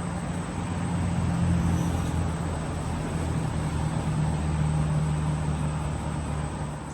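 Low, steady engine hum, growing louder after about a second and easing off near the end, like a motor vehicle running close by.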